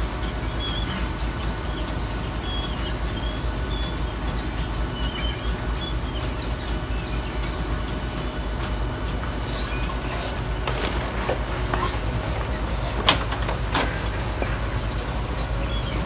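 Garbage truck's diesel engine running steadily with a low rumble, with a few sharp metal clanks in the second half, the loudest about 13 seconds in.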